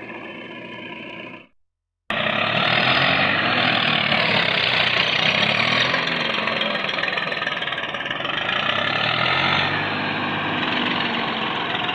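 Tractor diesel engine revving loudly, its pitch rising and falling, after a sudden cut to silence about two seconds in.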